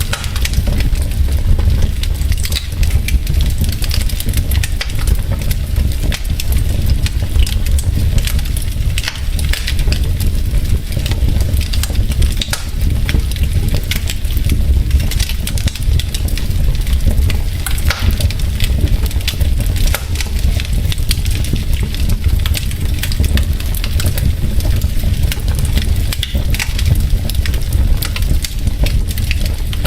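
Wood fire burning in a fireplace: logs crackling with many sharp pops and snaps over a steady low rumble of the flames.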